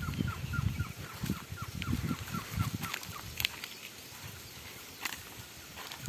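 A bird calling a fast series of short, dropping notes, about four a second, that fades out about two seconds in, over a low rumbling; two sharp clicks come later.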